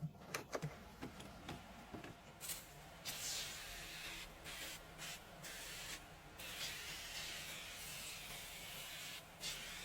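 A few light clicks and knocks, then a spray hissing in several short bursts of a second or less, followed by a longer unbroken spray of about three seconds that stops briefly near the end.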